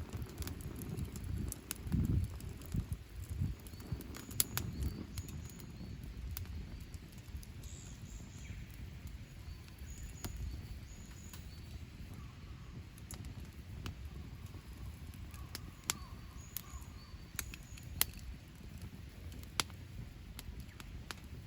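Wood fire crackling in a fire stand, with sharp pops scattered throughout and a low rumble in the first few seconds. Faint high bird chirps in the background.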